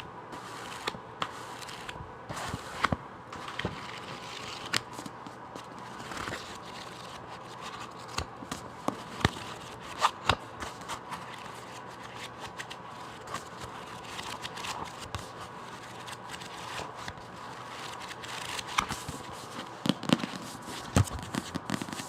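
Fingers tapping and lightly scratching on a book, irregular sharp taps over a soft rustle, close to the microphone.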